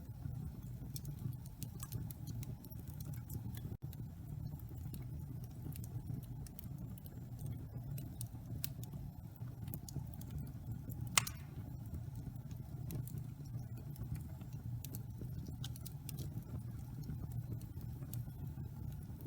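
Wood fire burning in a fireplace: a steady low rumble with small scattered crackles and one sharper pop about eleven seconds in.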